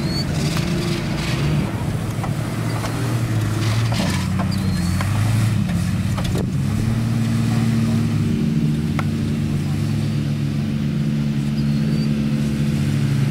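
An SUV's engine running as it drives slowly through a muddy field. Its pitch shifts up and down over the first half, then holds steady.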